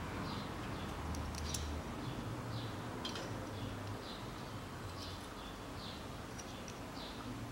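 A small bird chirping over and over in short high notes, about once or twice a second. Through it come a few faint metallic clicks as steel main bearing shells are pressed into the saddles of an aluminium engine block, over a low hum.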